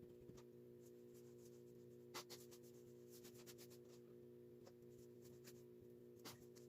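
Near silence: a faint steady hum with scattered light ticks and scratchy taps, the clearest about two seconds in and again near the end.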